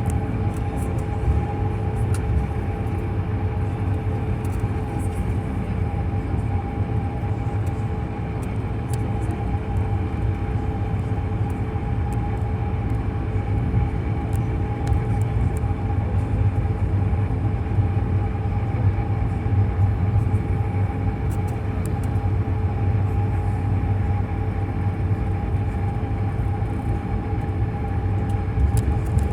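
Airliner cabin noise with the jet engines running at low power while taxiing: a steady low rumble with two steady engine tones over it, and faint scattered ticks.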